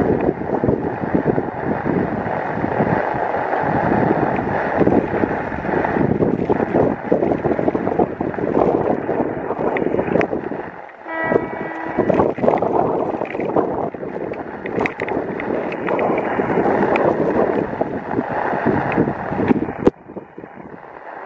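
Heavy rain falling, with wind gusting on the microphone. About halfway through, a brief pitched tone sounds through the noise.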